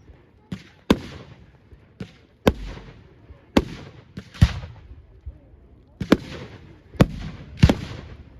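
Fireworks display: a quick, irregular series of sharp bangs, about a dozen in eight seconds, each trailing off briefly.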